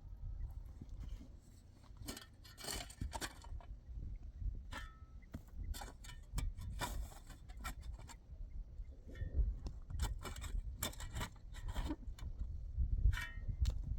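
Irregular short scrapes and clinks, several in quick clusters, over a steady low rumble.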